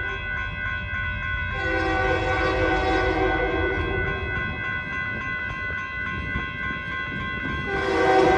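Air horn of a pair of EMD GP60 diesel locomotives running light: one long blast of about two and a half seconds, then another starting near the end. Under it, a steady low rumble from the engines and wheels, and faint steady high tones between the blasts.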